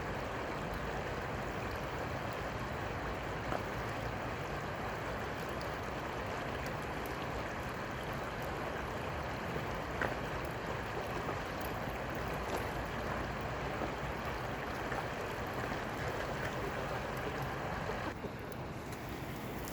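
Steady rushing of flowing river water, an even hiss with a few faint clicks, thinning slightly near the end.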